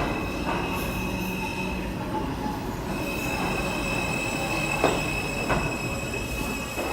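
NYC subway train running, its steel wheels giving a steady high squeal against the rails, with two sharp clacks about five seconds in.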